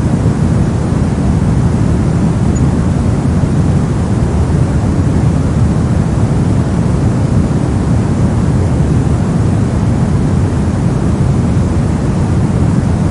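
Steady brown noise: an even, deep rushing hiss with most of its energy in the low end and the highs rolled off, unchanging throughout.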